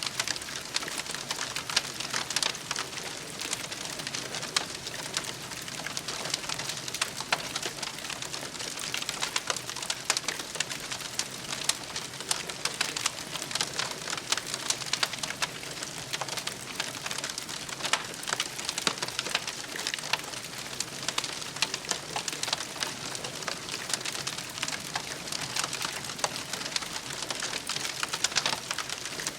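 Wood campfire crackling steadily, with many small snaps and pops over a constant hiss.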